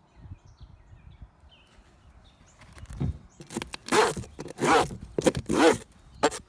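Wooden beehive frame scraped with a hive tool while cleaning out the hive: three or four loud rasping strokes in the second half, with a wavering squeak running through them.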